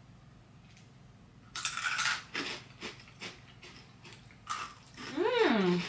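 Crunching on hard potato snacks: a run of irregular crisp crunches. Near the end comes a long hummed "mmm" that rises and falls in pitch.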